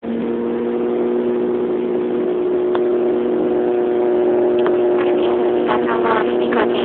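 Airliner's engines droning steadily as heard inside the cabin while the plane comes in to land, a low hum with a few steady tones. Two faint clicks sound partway through, and voices begin near the end.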